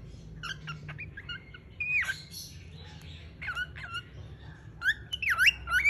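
Pet bird chirping and whistling: short scattered chirps, then louder swooping whistles that rise and fall near the end.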